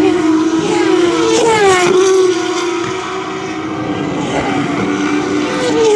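Turismo Carretera race car engines running at high revs. One engine note falls steeply in pitch about two seconds in, while a steady engine tone carries on underneath.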